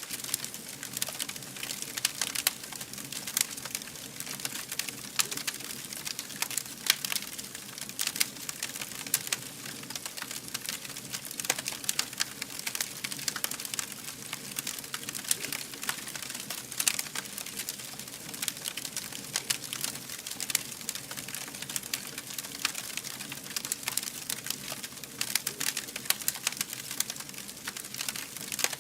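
Wood fire burning, with dense, continuous crackling and snapping over a low steady hiss.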